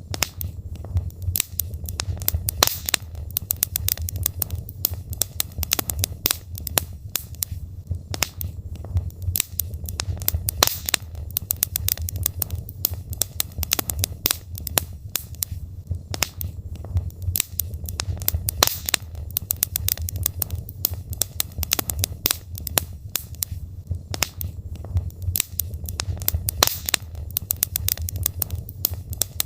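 Wood logs burning in a fireplace: a dense, irregular run of sharp crackles and pops over a steady low rumble.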